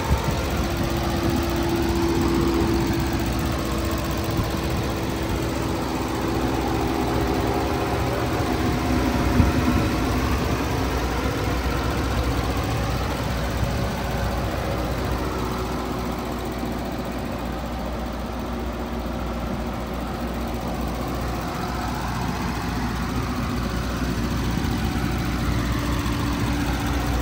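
Porsche Macan GTS's 2.9-litre twin-turbo V6 idling steadily with the hood open, a smooth even hum with no revving.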